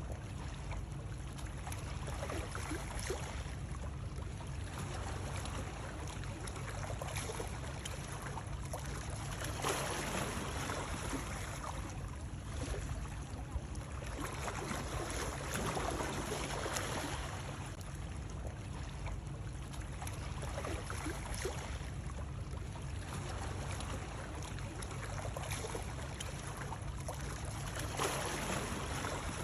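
Steady sound of running water that swells and eases every few seconds over a constant low rumble.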